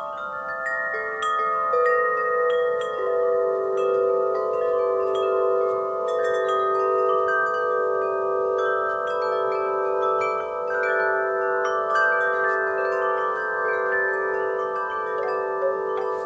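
Wind chimes ringing in the breeze: many metal tones struck at irregular moments, each ringing on long and overlapping the others in a layered wash of pitches.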